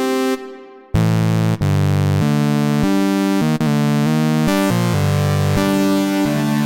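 Waldorf Pulse 2 analog monosynth playing presets. One patch fades out, and about a second in a new patch starts: a bass-heavy line of notes stepping in pitch a few times a second, with a brighter hissy layer added partway through.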